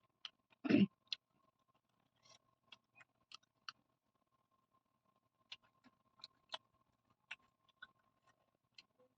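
Close-miked eating sounds: scattered small wet mouth clicks from chewing, with one louder, fuller sound just under a second in.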